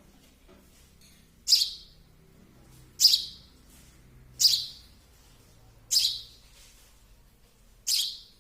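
Baby sparrow chirping: five loud single chirps, each short and high, coming about every one and a half seconds.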